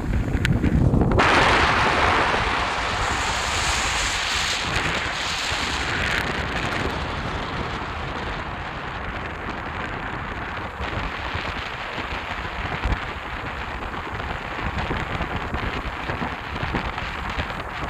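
Steady rushing wind buffeting the microphone, with a low rumbling flutter underneath.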